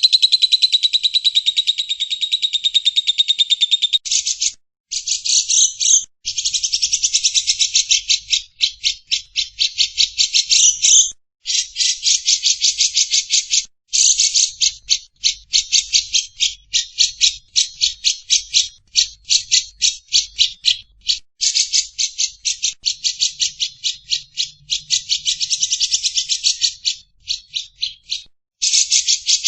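A bird chattering in long, rapid trills of sharp high-pitched notes, broken now and then by short pauses.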